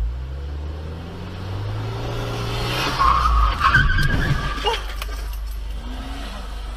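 Car engine running, then tyres squealing in a skid about three seconds in, with a couple of sharp impacts about a second later: a car crash.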